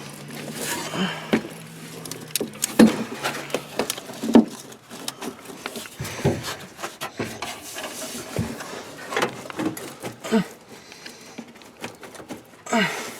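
Irregular clicks, taps and knocks of hands working a wiring harness connector and its pins by hand, with light handling noise between them.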